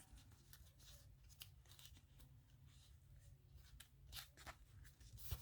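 Faint rustling and small crinkles of stiff paper being handled and pressed down, a few light ticks scattered through near silence.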